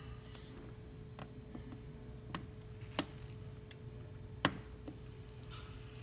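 La Pavoni lever espresso machine during a test shot: a few sharp, irregular clicks, the loudest about three seconds in and again about a second and a half later, over a faint steady hum.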